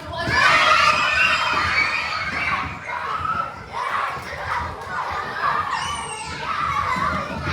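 A group of young children shouting and squealing all at once. The hubbub of many voices starts suddenly and stays loud.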